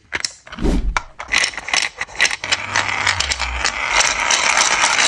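Rapid, irregular clicking and ratcheting of a 3D-printed plastic mechanism, getting busier and more continuous toward the end.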